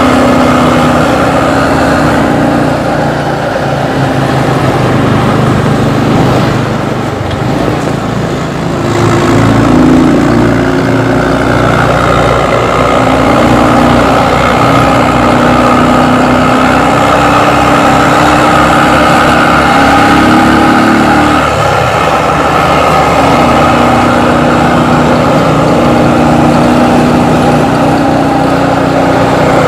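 Intercity bus diesel engine running through a loud exhaust, steady for most of the time, with a brief drop in level about a third of the way in.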